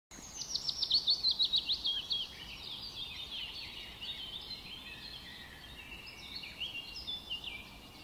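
Songbirds singing: a fast run of down-slurred notes that steps down in pitch over the first two seconds, then quieter, varied chirps and short whistled notes.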